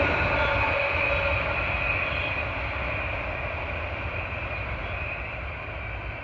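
Rear of a CSX freight train of autorack cars rolling away down the track, its wheel and rail noise fading steadily as it recedes.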